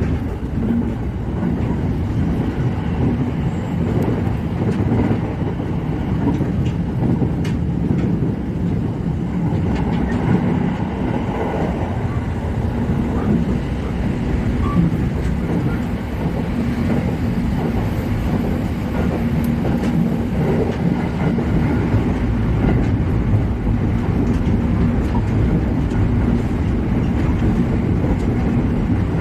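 JR Musashino Line electric train running, heard from inside the front car: a steady rumble of wheels and running gear on the track, with a few faint clicks.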